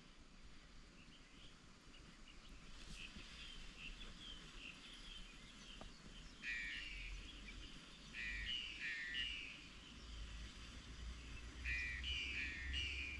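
Songbird calling outdoors in short, fast, chirpy phrases, faint at first and then repeated three times more loudly, over a low rumble.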